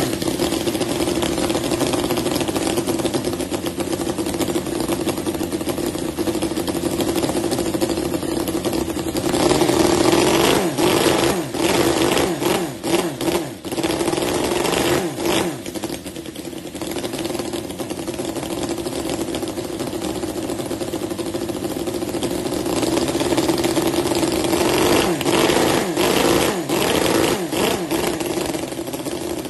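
Miniature four-stroke model engine running, driven off its electric starter motor, with a steady buzzing drone. In the middle it runs unevenly, with rapid knocks and the speed rising and falling, then settles back to a steady run.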